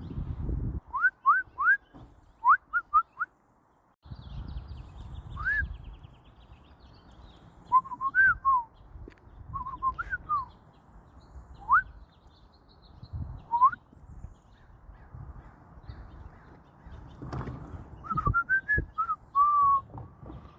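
Short, clear whistled notes, each sliding upward, given in quick runs of three or four, with a few warbling phrases near the end. A low rumble sits underneath from about four seconds in.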